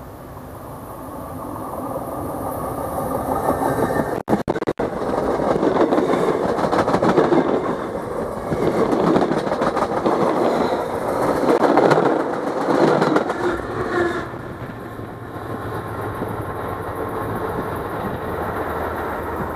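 A train passes directly over a camera lying between the rails. Its rumble and wheel-on-rail clatter build up, the sound cuts out twice briefly about four seconds in, and then it is loud for about ten seconds. Near the end it drops off sharply, leaving a lower, steady hum.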